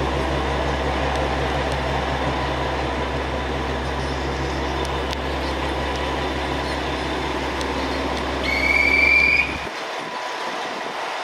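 KiHa 47 diesel railcar heard from inside the car, running with a steady low engine hum and rail noise. About eight and a half seconds in, a brief high-pitched squeal from the wheels rises slightly for about a second. The low rumble then cuts away suddenly.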